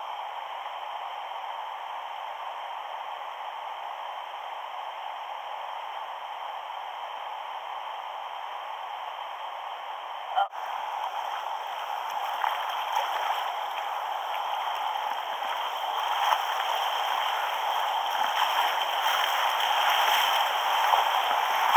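River water rushing and gurgling around a kayak, a steady hiss that grows louder through the second half as the current picks up. There is a brief click about halfway through.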